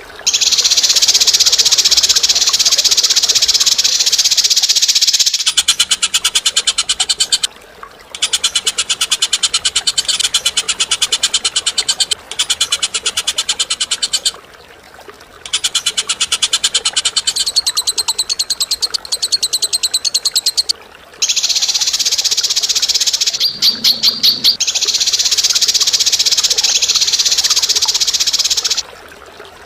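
Birds' harsh, rapid rattling trills in long stretches broken by short gaps. A dense, buzzy trill comes first, then a more clearly pulsed chatter from about five seconds in, and the dense trill returns near the end.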